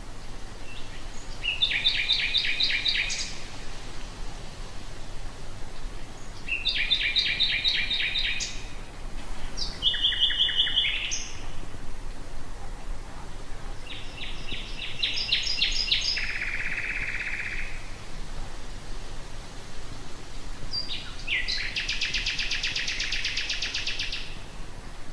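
Common nightingale singing: five phrases of fast repeated notes with pauses of a few seconds between them, over a steady low background hum.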